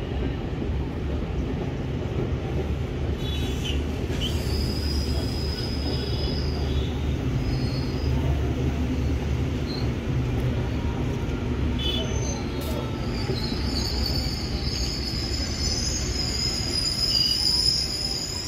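Passenger train coaches rolling slowly along the platform with a steady low rumble. High-pitched wheel squeal rings out briefly about four seconds in and again from about thirteen seconds on.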